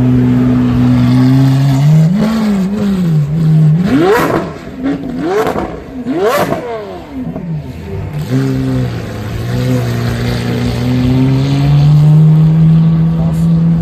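Lamborghini Aventador's V12 engine and exhaust running at a steady drone, then revved: a small rev about two seconds in, three quick, sharp rev blips in the middle with a crack at the top of each, then back to a steady drone that rises slowly near the end. Very loud.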